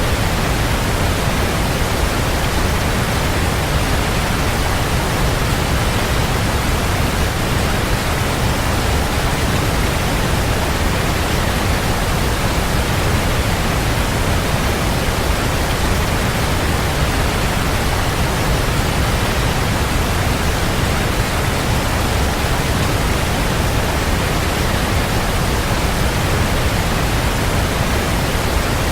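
Waterfall rushing in a steady, unbroken wash of noise, heaviest in the low rumble, with no changes or separate splashes.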